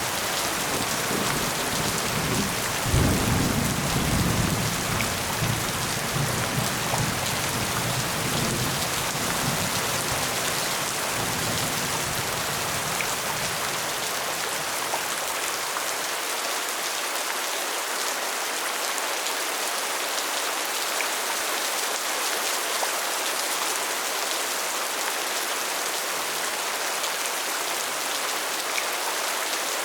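Steady rain falling, with a low rumble of thunder rolling in at the start, loudest a few seconds in and dying away before the halfway point.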